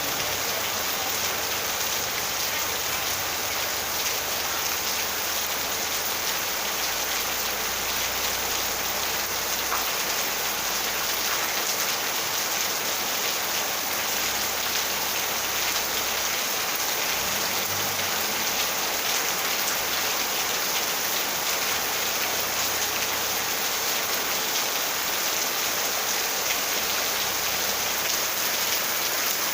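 Steady rain falling, a dense, even hiss of raindrops.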